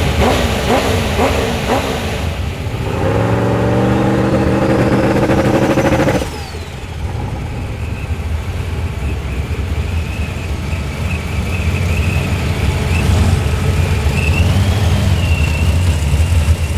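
Modified muscle car engine being revved: quick rises and falls in revs, then held at a steady higher speed for about three seconds. The revs are cut off suddenly, and the engine drops back to a low, lumpy idle.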